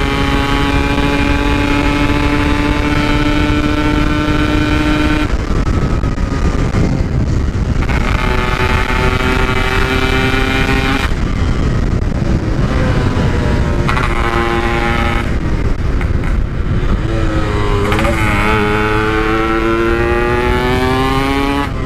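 Yamaha RX-King two-stroke single-cylinder engine with a stock-style 'belek' exhaust, ridden hard, its pitch climbing steadily through several pulls. The engine note drops away briefly between pulls while wind and road rush carry on.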